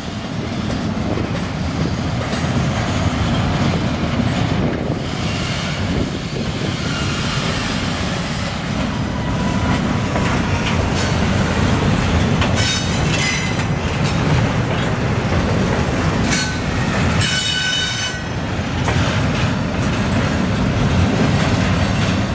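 BNSF double-stack container train's well cars rolling past close by: a steady rumble of steel wheels on rail. In the second half, short high-pitched wheel squeals come and go, flange squeal from the cars snaking through the curve.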